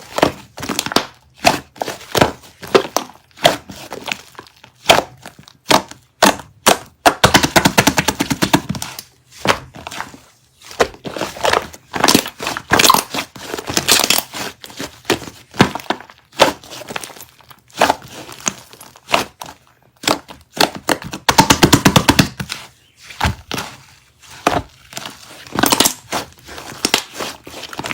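Slime being squished and pressed by hand, giving a string of sharp pops and crackles as trapped air bursts. There are two stretches of fast, dense crackling, about a third of the way in and again after about three quarters.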